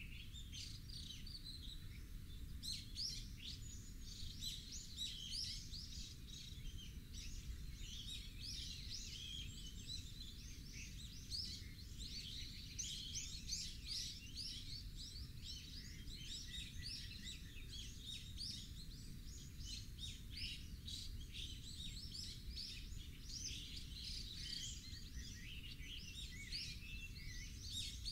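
Many birds chirping in quick, overlapping short calls, over a steady low rumble.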